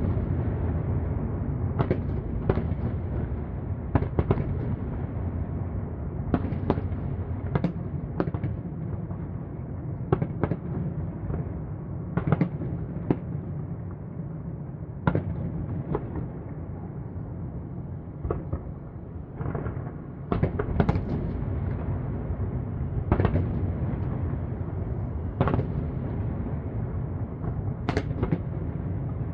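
Aerial fireworks shells bursting over the city: a string of sharp bangs, about one every second or two, over a continuous low rumble of overlapping booms.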